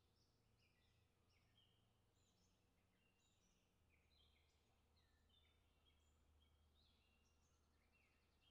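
Near silence with faint, continuous bird chirping: many short, overlapping high chirps.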